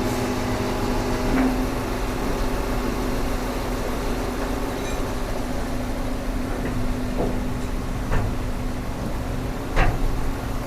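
Excavator engine running at a steady idle-like hum, with a few short metallic knocks, two of them close together near the end.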